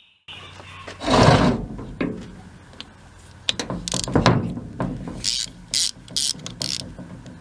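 Socket ratchet clicking in short strokes, loosening bolts on the cover of a Blackmer vane fuel pump. A louder knock about a second in, and a steady low hum underneath.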